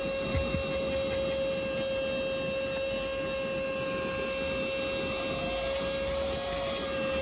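Cordless handheld mini vacuum cleaner running with a steady high-pitched motor whine, with a couple of soft knocks about half a second in.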